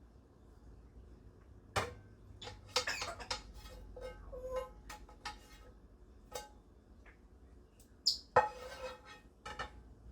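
Kitchen cooking clatter: scattered clicks and knocks of utensils against pans and dishes, with short rattling stretches about three seconds in and again after eight seconds. A brief high sound comes just before the second stretch.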